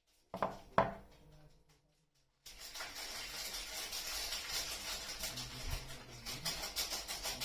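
Two light taps, then after a short silence a continuous crinkling rustle of soap packaging being handled and unwrapped.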